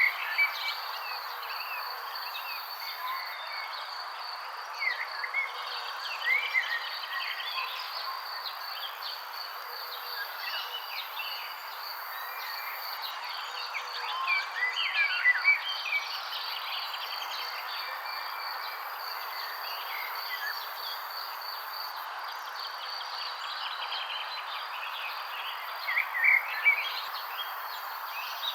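Birds chirping in short, scattered calls, loudest about five, fifteen and twenty-six seconds in, over a steady high insect trill and a constant soft hiss.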